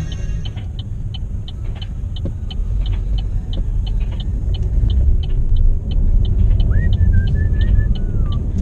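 Vehicle road rumble, heavy and steady, with a regular high ticking about three times a second. A few short whistle-like gliding tones come near the end.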